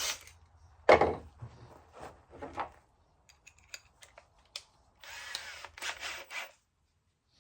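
Knocks and clatter of wood and hardware being handled, then a cordless drill driving a pocket-hole screw in two short runs near the end.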